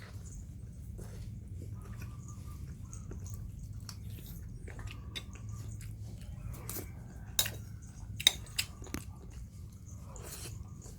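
Puppies eating: chewing, with scattered small clicks against a food dish and two sharper knocks about three quarters of the way through.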